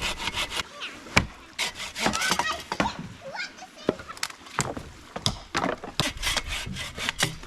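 Hand saw cutting wood in quick runs of strokes, broken by short pauses, with one sharp knock about a second in.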